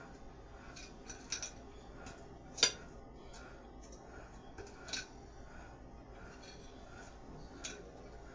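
A few scattered light clicks and taps from small objects being handled, the sharpest about two and a half seconds in, over a faint steady background hum.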